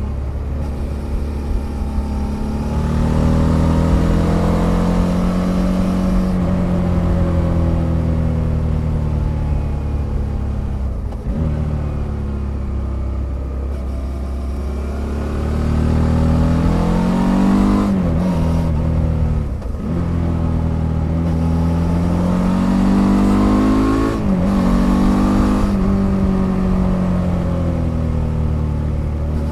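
2007 Suzuki DL650 V-Strom's 645 cc V-twin engine running through its stock exhaust, heard from under the pillion seat. It pulls hard and backs off by turns, its pitch rising and falling, with several quick gear changes that briefly drop the note.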